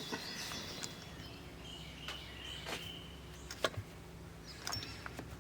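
A few light clicks and knocks over a steady low hum, with faint high chirps in the background.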